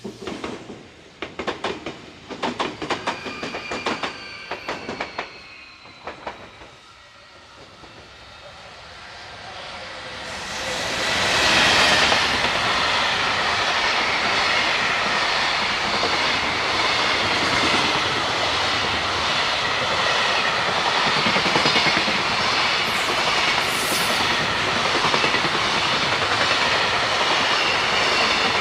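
Train wheels clicking rhythmically over rail joints as the tail of a train passes and fades out. After a short lull, another train approaches and passes close by with a loud, steady rumble of wheels on rail that holds to the end.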